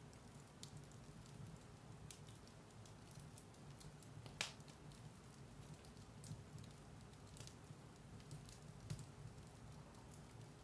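Firewood burning in a fireplace, crackling softly with scattered small pops, one louder pop about four seconds in, over a low steady rumble.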